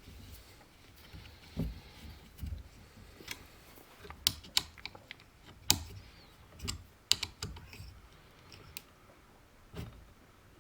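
Irregular small clicks and light knocks of a hand tool and metal chainsaw parts being handled as a screw is fitted and tightened into the tank and rear handle mount. The sharpest clicks come in the middle.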